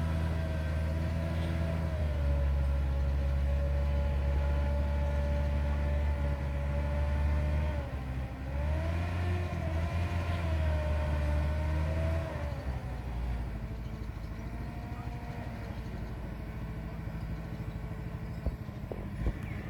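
Massey Ferguson 375 tractor's diesel engine running with a steady low drone and a higher whine that rises and falls. About twelve seconds in, the engine note drops off and goes quieter.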